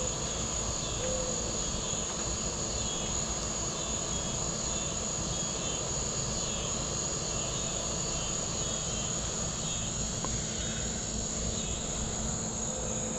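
Steady high-pitched chorus of insects with short repeated chirps, over a soft hiss of light rain.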